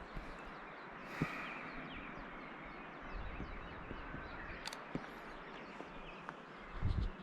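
Wild birds calling in spring woodland, with a harsher crow-like call about a second in, over the scattered steps of someone walking the trail.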